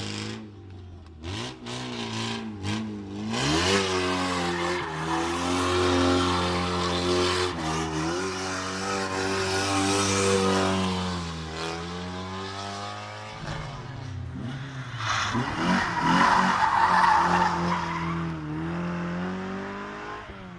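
Historic rally car on a stage: a few sharp cracks, then the engine revs up hard and is held high with a quick gear change, the revs falling away before a loud burst of tyres skidding over a lower engine note.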